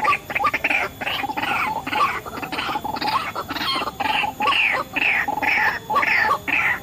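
White-breasted waterhen (ruak-ruak) calling in a fast, steady, repetitive series, two to three calls a second.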